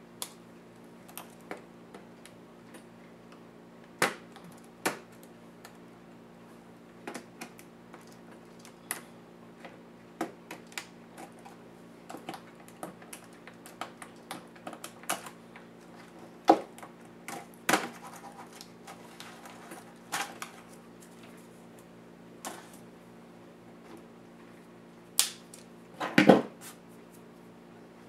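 Irregular clicks, taps and knocks of a laptop's plastic case parts, screws and tools being handled during disassembly, with a cluster of louder knocks near the end.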